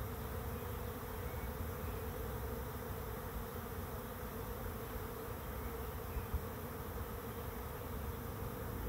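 Swarming honey bees buzzing steadily as the swarm moves into a swarm trap, a dense even hum of many wingbeats with a faint blip about six seconds in.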